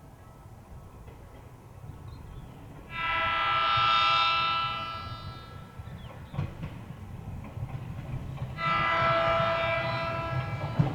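Ueda Electric Railway 1000 series train sounding two steady horn blasts, each about two seconds long and roughly five seconds apart, over the low rumble of the train running on the rails.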